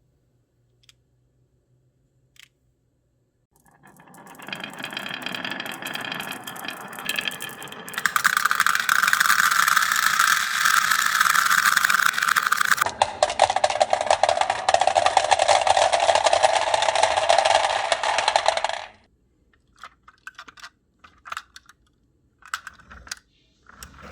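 Many marbles rolling and clattering together down rain-gutter and wooden-rail tracks. The sound builds up from about four seconds in, is loud and dense for about ten seconds, changes abruptly partway through, then cuts off suddenly and leaves a few scattered clicks.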